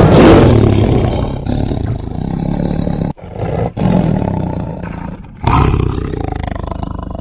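Tiger roaring. The first roar is loudest at the start and trails off with two short breaks. A second loud roar starts about five and a half seconds in and fades.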